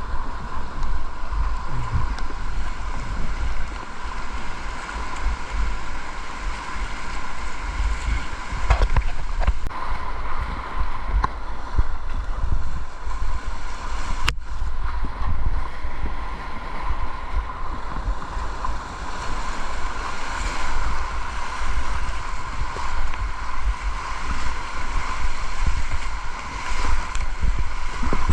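Continuous rush of river water from a kayak, with wind buffeting the microphone in low rumbles and a sharp click about 14 seconds in.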